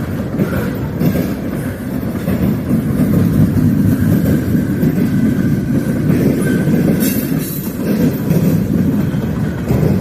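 Freight train cars rolling past with a steady rumble of wheels on rail, with a faint thin squeal in the middle.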